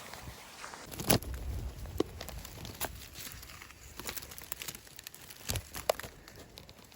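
Brambles and undergrowth rustling and crackling as someone pushes through them, with scattered sharp twig snaps, the loudest about a second in.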